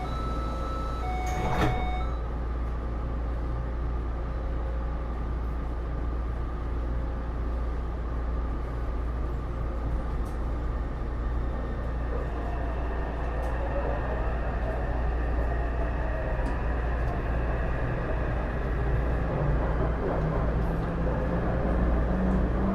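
Interior running sound of a Taipei Metro C301 car with Bombardier IGBT-VVVF traction. A short series of electronic warning beeps ends about two seconds in with a single clunk. After a steady hum, the traction inverter and motors begin to whine from about halfway through, with tones rising in pitch as the train pulls away and gathers speed.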